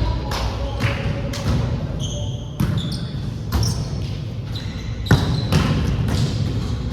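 Volleyball play on a hard court: balls struck and bouncing on the floor in a string of sharp impacts, with a few brief high squeaks about two to three seconds in and voices in the background.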